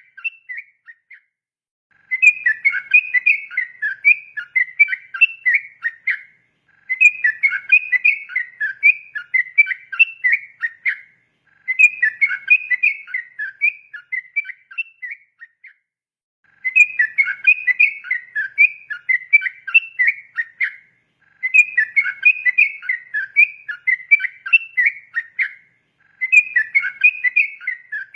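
Yellow-vented bulbul (trucukan) singing its rapid, bubbling song in long phrases of about four seconds each, with short pauses between them, about six phrases in all.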